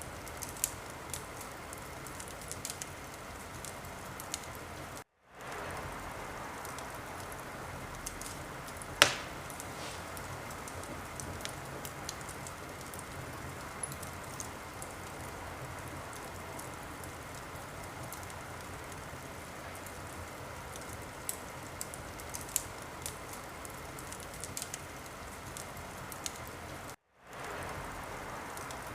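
Wood fire burning in a fireplace: a steady hiss with scattered crackles and one loud pop about nine seconds in. The sound cuts out briefly twice, near the start and near the end.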